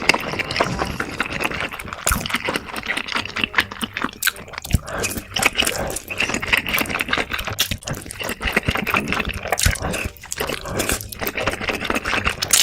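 Close-miked eating of noodles: wet slurps and chewing smacks in an irregular run of sharp clicks.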